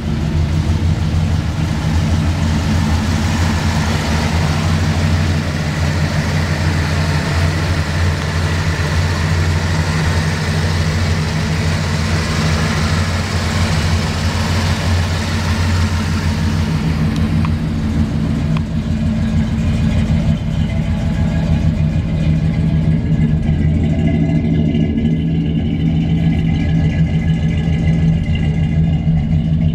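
1986 GMC 3500 pickup's 454 big-block V8 running steadily, with a rushing noise over it that fades out about halfway through.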